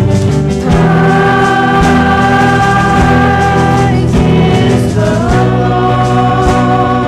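Live church worship music with singing. Long held sung notes, one ending about four seconds in and the next rising into place about a second later, over a regular beat.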